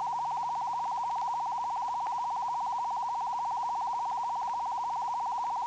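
A steady, single-pitched electronic tone with a fast, even flutter, held at one level.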